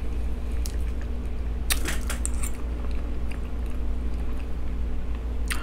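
Close-up mouth sounds of a person chewing a mouthful of soft loaded baked potato with closed lips: scattered soft wet clicks and smacks, over a steady low hum.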